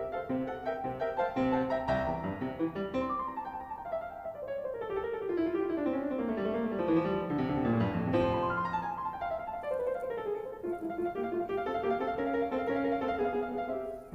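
Background piano music, with runs of notes sweeping down and back up.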